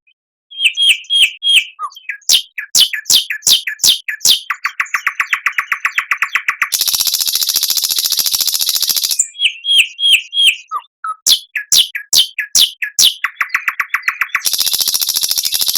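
Recorded songbird song played as a masteran, a training recording for pet songbirds. One song phrase sounds twice: four short clear notes, a run of quick downward-sliding whistles, a rapid trill, then a long harsh buzzing rattle.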